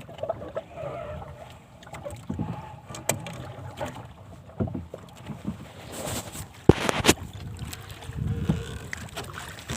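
Irregular knocks, clatter and sloshing water around a small boat while a hooked fish is played, with a few sharp clicks, the loudest about seven seconds in.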